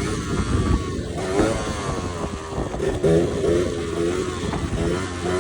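Yamaha DTR 125's two-stroke single-cylinder engine revving, its pitch rising and falling several times.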